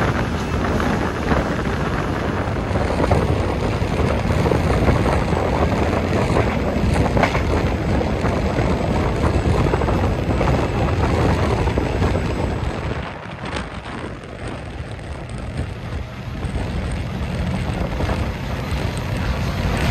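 A passenger train running along the line: a steady low rumble with rushing wind noise, which eases off about two-thirds of the way through and then builds again.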